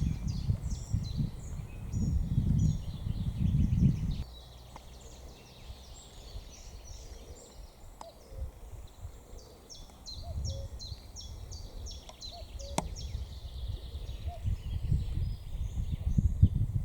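Small birds singing in quick series of short high chirps, with wind buffeting the microphone in low gusts during the first few seconds and again near the end.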